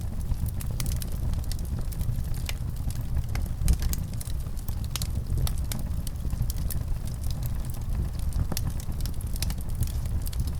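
Wood fire crackling in a fireplace: a steady low rumble of flames with irregular sharp pops and snaps, one louder pop a little under four seconds in.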